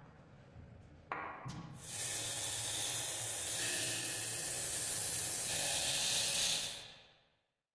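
Aerosol spray paint hissing in one steady spray of about five seconds that fades out near the end, after a couple of short clicks.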